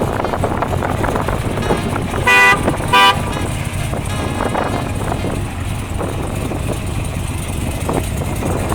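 Supercharged 6.2-litre V8 of a 2013 Cadillac CTS-V running steadily. A car horn gives two short toots a little over two seconds in.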